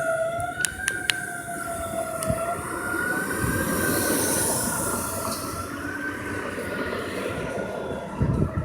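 Fire engine siren sounding a long, held tone that wavers slowly up and down. A rush of vehicle noise swells under it around the middle, with a few sharp clicks near the start.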